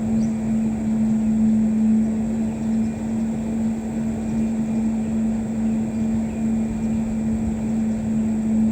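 Steady motor drone with a constant low hum and rumble, unchanging in pitch and level.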